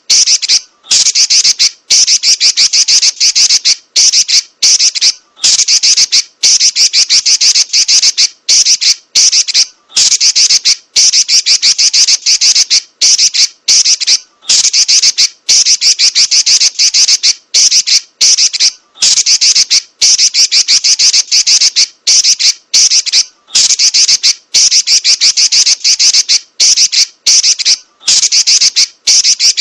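Female Pekin robin (red-billed leiothrix) giving rapid, high-pitched chattering rolls in bursts of about a second, broken by brief pauses and repeated over and over.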